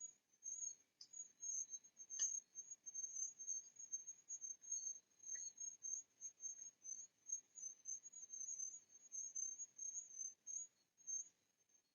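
High-pitched insect trill, like a cricket's, going on in rapid uneven pulses, with a fainter steady tone lower down. Two faint ticks come about two and five seconds in.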